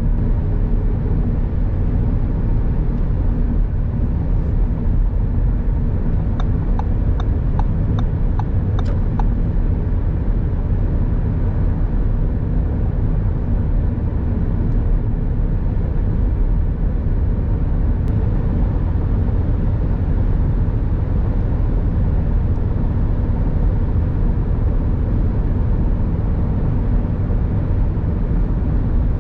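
Audi S3 Sportback with its 2.0-litre turbocharged four-cylinder driving, giving a steady, even drone of engine and road noise. A short run of about seven quick, evenly spaced ticks comes several seconds in.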